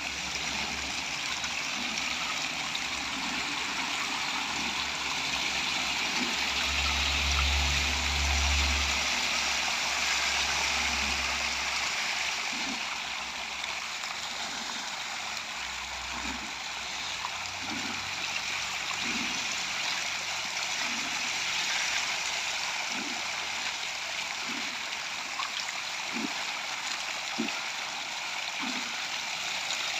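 Steady rush of water flowing into a fish pond, with short low plops every second or two in the second half.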